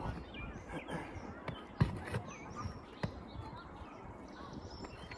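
Small birds chirping throughout, with two sharp knocks of a metal pry tool working a roofing nail out from under an asphalt shingle, the louder one about two seconds in.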